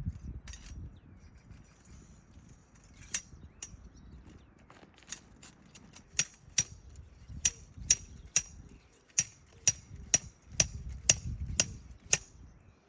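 A run of sharp taps or clicks, sparse at first and then about two a second through the second half, over a low rumble.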